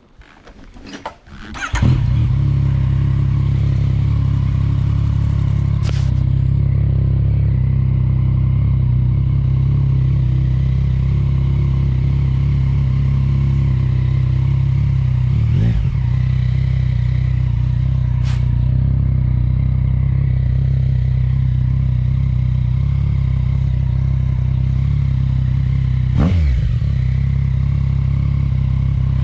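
Yamaha MT-09's three-cylinder engine through a Yoshimura exhaust, catching about two seconds in and then idling steadily. The note briefly swoops twice, near the middle and near the end.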